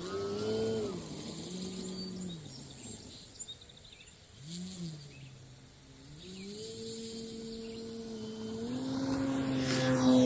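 Electric RC airplane's brushless motor and propeller whining through short throttle blips that rise and fall in pitch, then held steady and stepped higher, getting louder near the end as the plane is throttled up for its takeoff roll.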